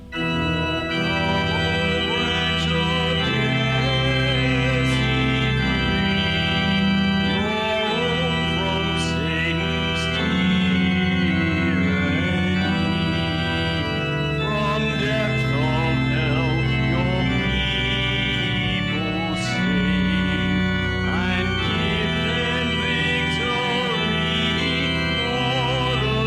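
Church organ playing: held chords under a moving melody line, without a break.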